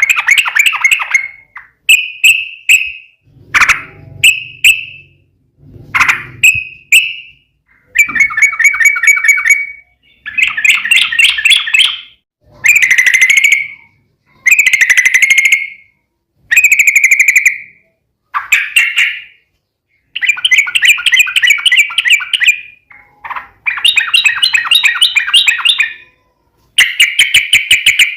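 Yellow-vented bulbul (trucukan) singing a long run of loud, fast chattering trilled phrases. Each phrase lasts about a second or two, with short pauses between them.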